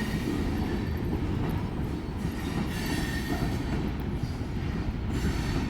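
Freight train cars rolling past on the rails: a steady rumble of wheels on track, with a faint high squeal now and then.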